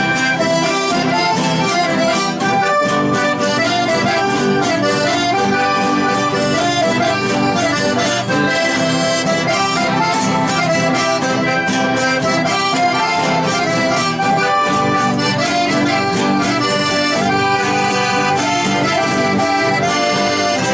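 Accordion playing a chamamé tune, a continuous run of quick melodic notes at a steady level.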